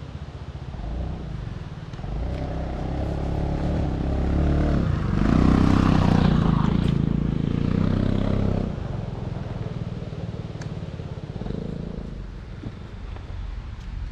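A motor vehicle's engine running. It grows louder to a peak around the middle, then eases off again.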